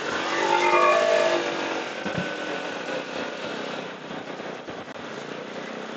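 Motorcycle riding noise in traffic: engine and road sound, with an engine's pitched note swelling and loudest about a second in, then easing to a steadier hum.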